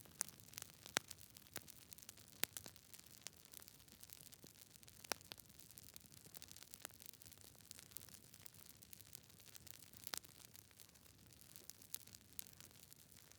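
Campfire crackling: irregular sharp pops and snaps, a few of them much louder, over a faint steady hiss.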